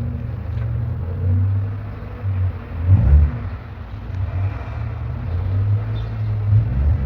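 A 2004 Mitsubishi Lancer's engine running, its low rumble swelling and easing, with a louder surge about three seconds in.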